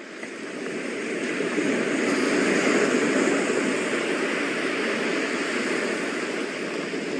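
Steady rushing noise of water and wind, fading in over the first two seconds and then holding even.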